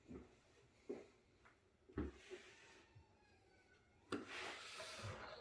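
Light knocks and clicks of computer case parts being handled, three short ones in the first two seconds, then a longer scraping sound from about four seconds in.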